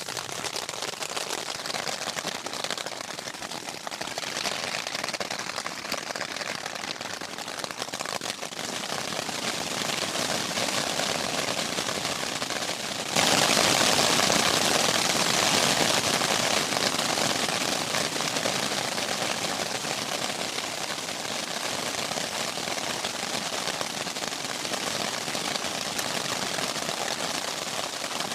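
Rain pattering on a tent, a dense steady patter of drops that gets suddenly louder about halfway through.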